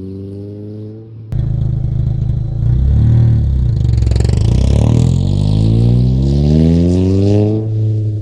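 Exhaust of a 2002 Audi A3 with the muffler chopped out and a 4.5-inch tip, the engine revving: it climbs in pitch, dips and climbs again, then makes a long climb that drops off near the end. The sound gets suddenly louder about a second in.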